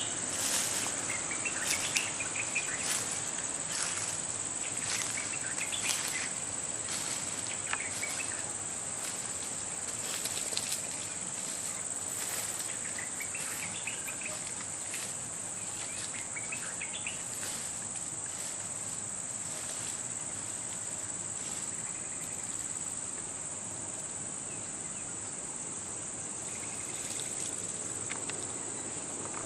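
Insects droning steadily at a high pitch, with scattered short clicks and cracks over the first half and a few faint chirps.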